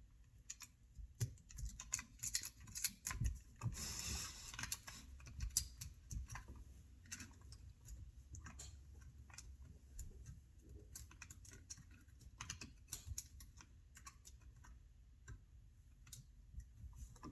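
Scattered light clicks and taps of chainsaw parts and small hand tools being handled while the saw is reassembled, with a brief hiss about four seconds in.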